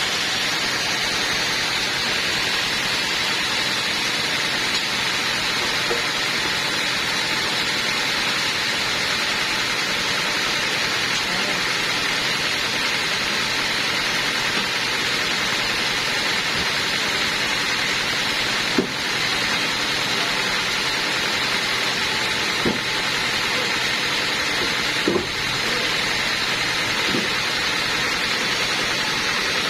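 Sawmill machinery running steadily, a constant even hiss with no change in pitch. Four short knocks come in the last third.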